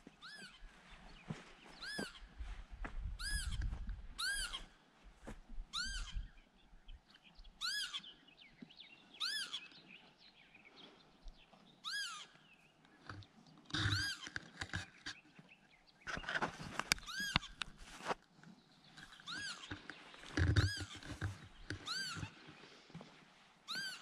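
A bird calling over and over in annoyance, one arched call every second or two, each rising and then falling in pitch. A few dull low thuds and rustles sound beneath the calls.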